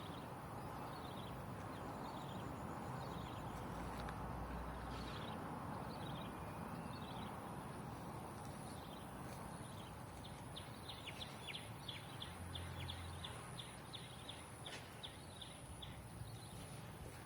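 Outdoor ambience: a steady background hiss with short, high chirps from small birds, coming in a quick rapid series about ten to fifteen seconds in, over a thin, steady high whine.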